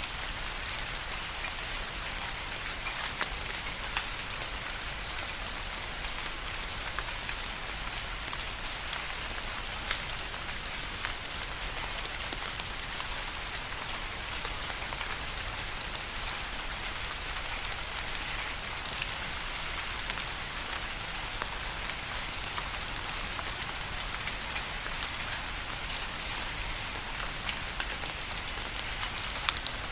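Steady rain, with many individual drops ticking sharply on a hard surface over a continuous hiss.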